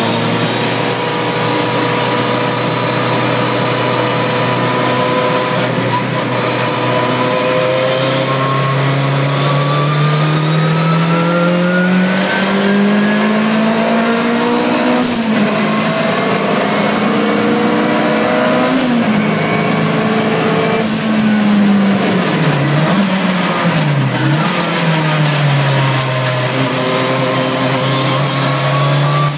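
Turbocharged 16-valve engine of a mid-engined, rear-wheel-drive VW Golf Mk2, heard from inside the cabin at track pace. The revs climb steadily for several seconds, then drop sharply three times around the middle as the driver lifts and shifts, and settle after that. A thin high whistle rises with the revs and cuts off at each lift, with a brief puff each time.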